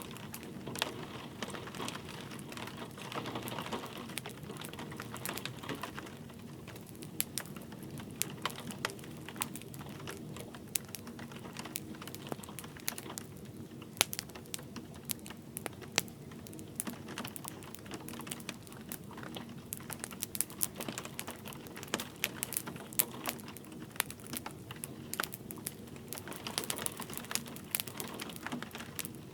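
Wood fire crackling and popping in a fireplace, irregular sharp snaps over a low steady rumble of burning, with light rain pattering in the background.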